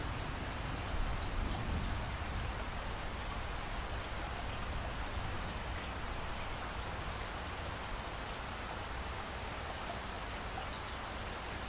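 Steady rainfall with drops pattering on a surface, an even hiss with a few faint sharper drop ticks.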